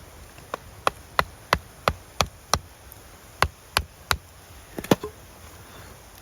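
A run of sharp knocks, about three a second: seven in a row, then after a short pause three more and a quick double knock.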